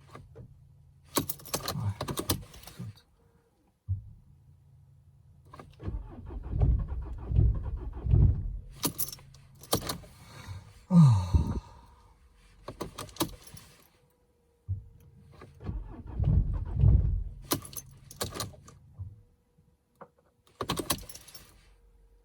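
Mercedes-Benz C220 CDI (W204) diesel engine cranked by its starter twice, a few seconds each time, without catching, with keys jangling at the ignition between attempts. A slow, hard cold start at about −15 °C.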